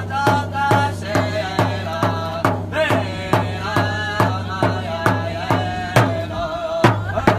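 A drum beaten in a steady beat, about two strokes a second, under voices singing together with a wavering melody.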